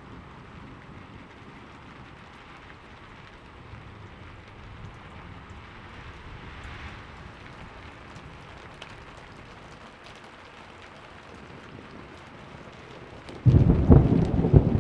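Steady rain falling, then a sudden loud crack and rumble of thunder near the end.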